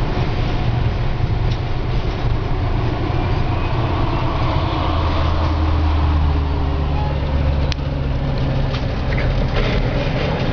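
Steady low rumble of a vehicle engine and road noise, swelling for a couple of seconds around the middle, with a few faint clicks.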